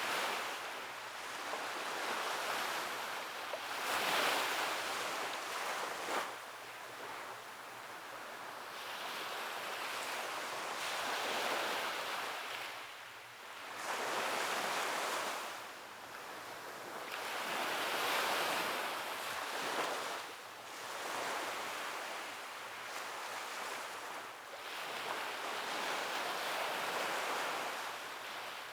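Sea waves breaking and washing up on the shore, one swell after another every few seconds, each rising and then fading.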